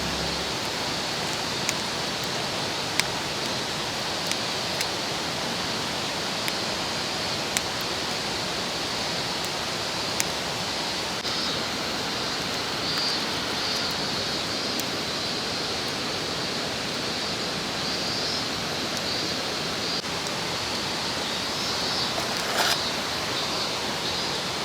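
Steady rushing of a mountain stream, with a few sharp clicks or snaps now and then and a short cluster of them near the end.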